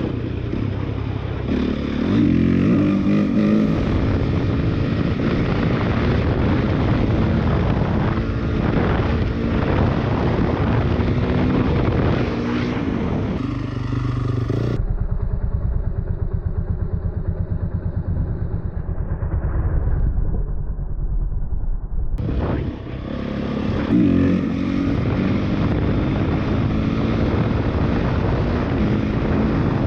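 Motorcycle engine running and revving while riding, with the sound recorded by a helmet or bike camera and carrying rushing noise over it. The sound changes abruptly about halfway through and again about three quarters of the way in, where the footage cuts to different clips.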